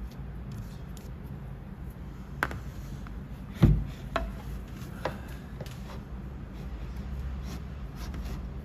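A few separate clicks and knocks, the loudest a dull thump about three and a half seconds in, over a low steady hum.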